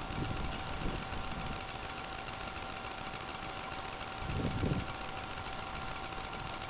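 Predator small engine on a homemade minibike idling steadily at a moderate level.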